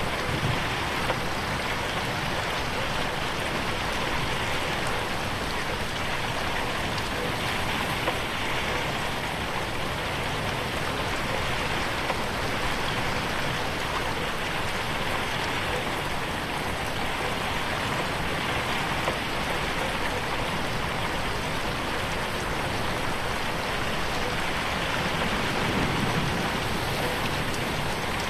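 Steady rain falling on a window pane, a dense even patter with a few single louder drop taps.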